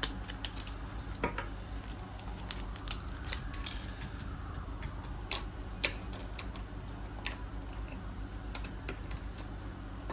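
Scattered small clicks and taps of a plastic key fob and its CR2032 coin-cell battery being handled, during a battery swap, over a steady low hum.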